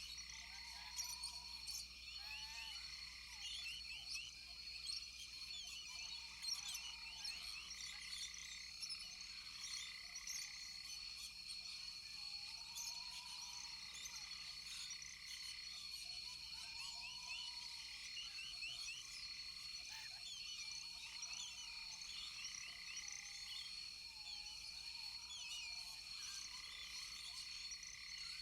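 Rainforest chorus of frogs and insects: steady high-pitched trilling, many short overlapping chirps, and a lower call repeating about every two seconds.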